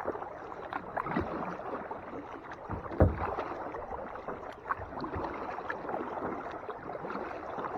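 Kayak being paddled: water splashing and dripping off the paddle and lapping at the hull, with small scattered ticks and one sharper knock about three seconds in.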